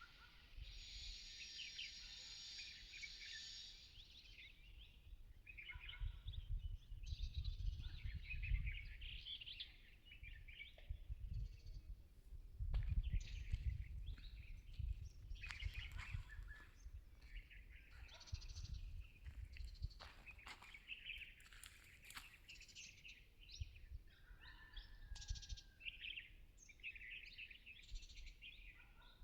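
Small birds chirping and twittering in quick, scattered calls, with a low rumble that comes and goes beneath them.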